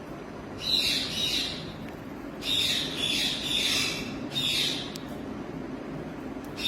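Alexandrine parakeet giving several harsh, raspy squawks in short bursts separated by brief pauses.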